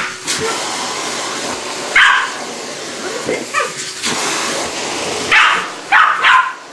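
A West Highland white terrier barking in short bursts, about five times, over a vacuum cleaner running steadily.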